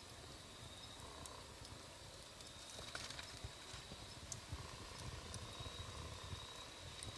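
Wood fire burning, with scattered sharp crackles and pops over a low rumble of flames.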